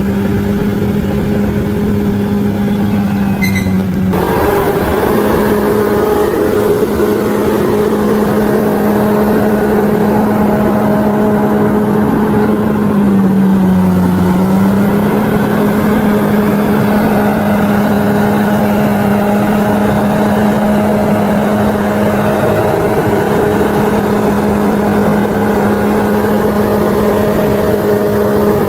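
Bulldozer's diesel engine running steadily at high revs, with a short dip in pitch about halfway through as it takes load. The sound changes abruptly about four seconds in.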